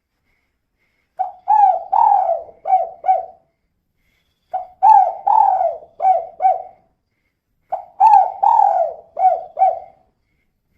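Female spotted dove (tekukur) cooing: three repeated phrases of five or six short coos each, about three seconds apart.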